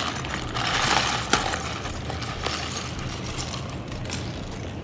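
Rattling and clicking of a toy kit's packaging and small parts being handled during unboxing, loudest in the first second or so, with one sharp click about a second and a half in.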